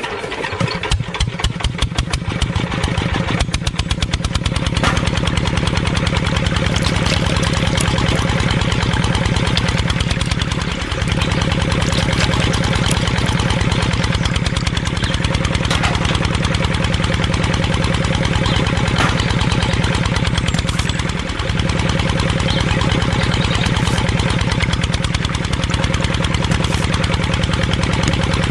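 An engine turning over and catching in the first few seconds, then running steadily with a fast, even chug. There is a brief dip twice, about eleven and twenty-one seconds in.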